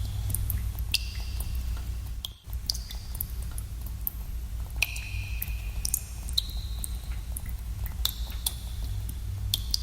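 Water dripping in a cave: single drops plinking into water every second or two, each a sharp click with a short ringing tone, among fainter ticks, over a steady low rumble. The sound cuts out briefly a little over two seconds in.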